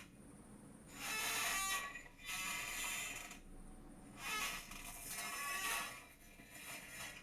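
A chair creaking under shifting weight: a few drawn-out creaks, each about a second long, with short quiet gaps between them.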